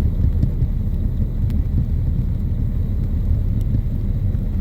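Steady low rumble of a whale-watching boat's engine, with wind on the microphone.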